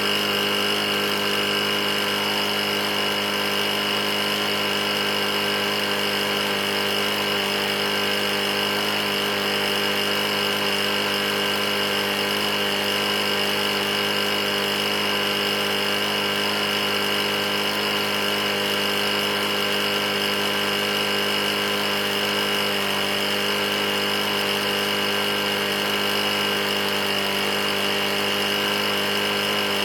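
Briggs & Stratton lawn mower engine running steadily at a constant speed. The engine has a bad knock and is being run until it fails.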